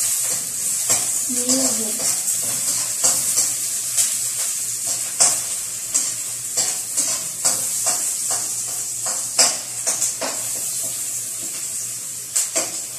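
Chopped garlic sizzling in hot oil in a wok, stirred with a metal slotted spatula. A steady frying hiss runs under repeated scrapes and clicks of the spatula on the pan, with louder knocks about five and nine seconds in and a quick run of them near the end.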